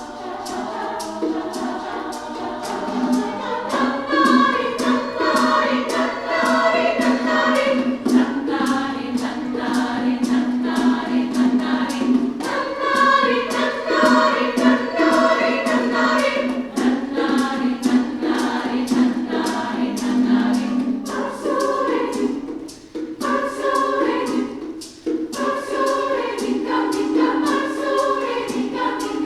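Women's chorus singing in parts, with a steady percussion beat underneath.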